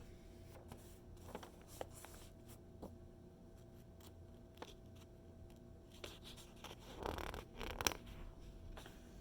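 Magazine pages being handled and turned: light paper taps and crinkles, then a longer rustling page turn about seven seconds in, the loudest sound.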